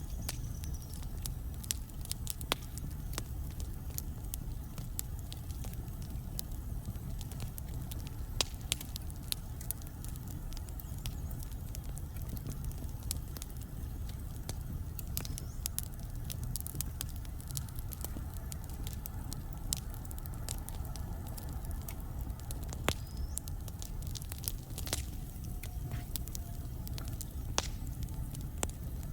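Wood fire burning in a fireplace: a steady low rumble of flames with irregular crackles and sharp pops from the burning logs, a few louder snaps among them, and a few faint brief whistles.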